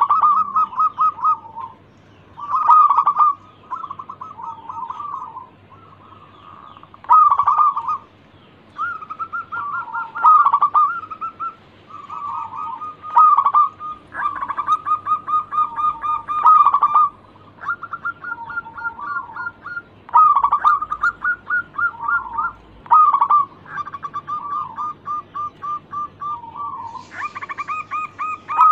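Zebra doves cooing in repeated phrases of quick, rolling notes, one phrase every one to three seconds.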